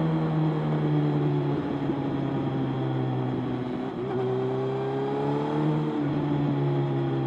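Motorcycle engine running while riding. The engine note holds fairly steady, sags slightly about a second and a half in, then climbs gradually from about four seconds before dropping back near six seconds.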